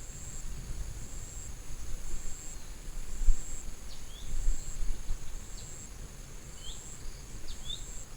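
High-pitched insect chirping in an even repeating pulse, about one pulse a second, with a few short falling bird chirps scattered through. Low rumbling thumps sound underneath, loudest about three seconds in.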